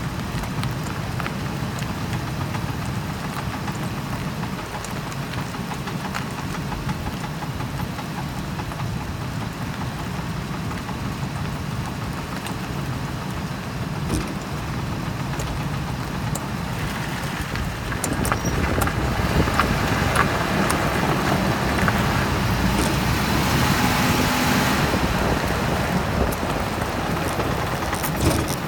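Ford Expedition driving, steady running and road noise with scattered light metallic clicks from worn driveline U-joints. The noise grows louder and hissier about eighteen seconds in.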